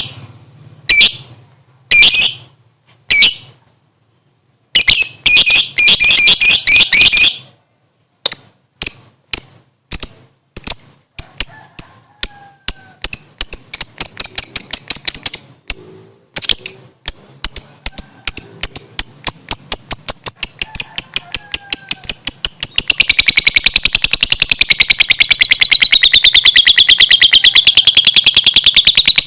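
Lovebird calling with shrill, sharp chirps: a few separate calls and a short burst at first, then steady calls about two a second, speeding up into a rapid continuous chatter about three-quarters of the way through.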